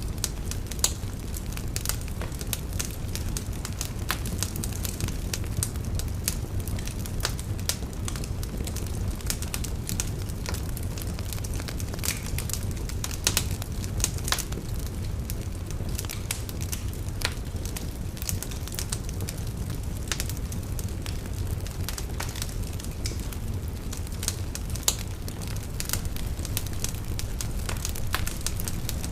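Fire burning in a fireplace: a steady low rumble of flames with frequent irregular sharp crackles and pops from the burning wood.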